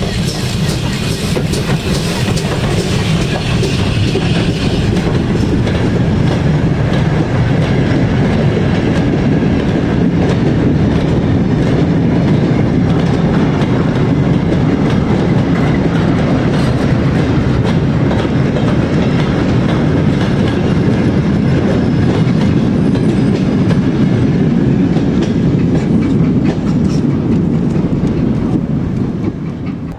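A train running past close by: a steady, loud rumble of wheels on rail with many rapid clicks, and extra hiss in the first few seconds.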